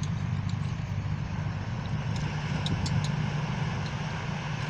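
A motor running steadily with a low hum, with a few faint clicks about two to three seconds in.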